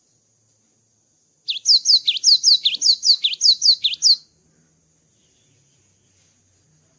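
Cinereous tit (gelatik batu) singing one rapid phrase of about ten sharp, repeated notes, each sweeping down in pitch, lasting nearly three seconds and starting about one and a half seconds in. A faint steady high hiss runs underneath.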